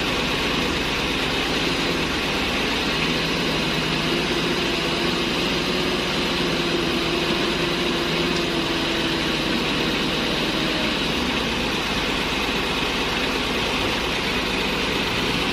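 Heavy dump truck's diesel engine idling steadily, with a constant low hum and no revving or breaks.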